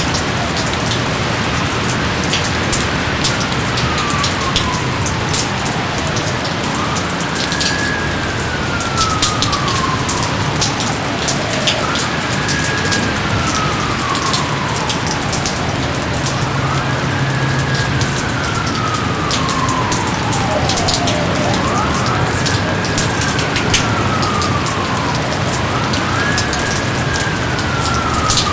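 Steady heavy rain with scattered sharp drips. Over it, a long whistle-like tone sweeps up briefly and then slides slowly down, about six times, one every four to five seconds.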